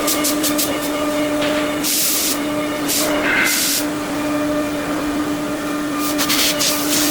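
Five-axis CNC machine running with a steady whine. Rapid clicking fades out early, and short bursts of hiss come at about 2 and 3.5 seconds in and again near the end.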